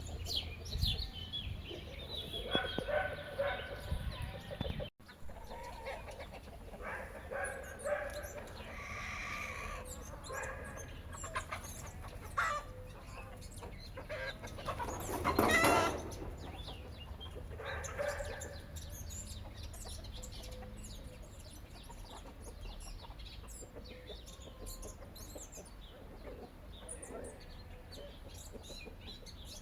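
Chickens clucking on and off, with a louder burst of calling about halfway through.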